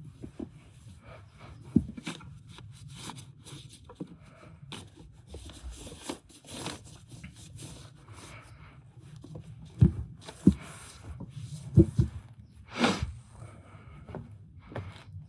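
Irregular handling noise of work on a car: scattered clicks and scrapes over a low hum, with a few sharp knocks about ten to twelve seconds in and a short scraping rush just before thirteen seconds.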